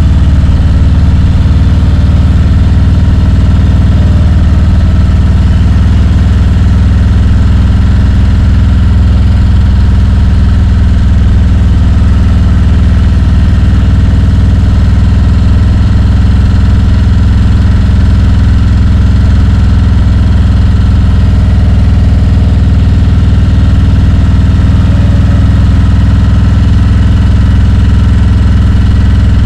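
Harley-Davidson Road Glide's V-twin engine running steadily at low revs, loud and even with no revving.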